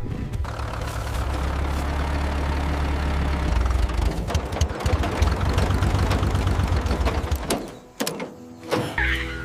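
Mini tractor engine running with a steady low rumble, cutting out about seven and a half seconds in, followed by a few knocks.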